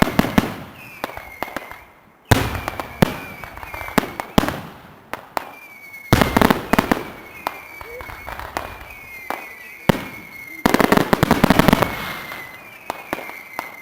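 Fireworks display: loud bangs of aerial shells go off one after another, with bursts of crackling. A dense crackling barrage comes about ten and a half seconds in.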